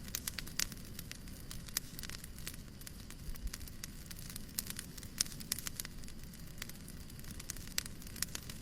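Fireplace crackling: irregular sharp snaps and pops, several a second, over a steady low rumble.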